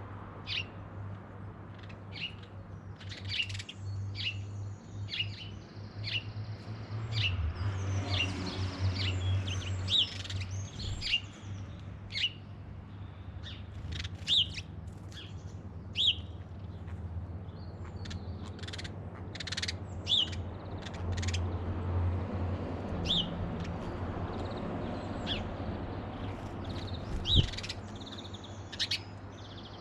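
Garden birds chirping and calling, many short sharp chirps overlapping through the whole stretch, over a steady low hum.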